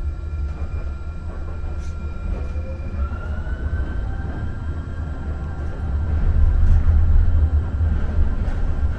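Muni Metro light rail car running through the subway tunnel: a steady low rumble, with a motor whine that rises in pitch about three seconds in and then holds, the rumble growing louder after about six seconds.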